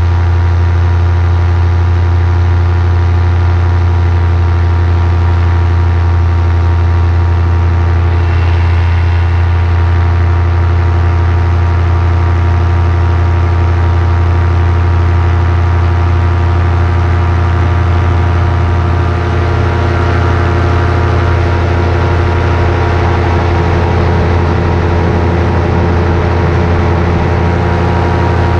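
Paramotor engine and propeller running at a steady throttle, a loud constant drone with a low pitched hum.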